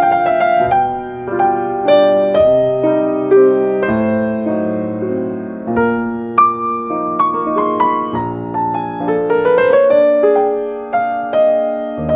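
Slow, gentle piano music: sustained chords with a melody above them, and a rising run of notes about three-quarters of the way through.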